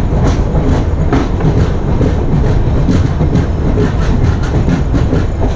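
Express train wheels clattering rapidly over the track with a heavy low rumble as the train pulls out of the station, heard from the open doorway of the moving coach.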